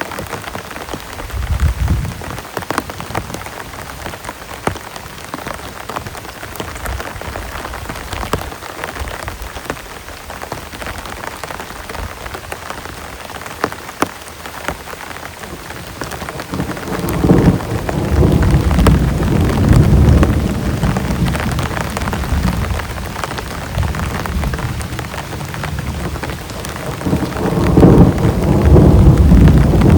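Heavy rain falling steadily, with many fine drop ticks. Thunder rumbles briefly about two seconds in, then long and loud from about seventeen seconds in, and louder again near the end.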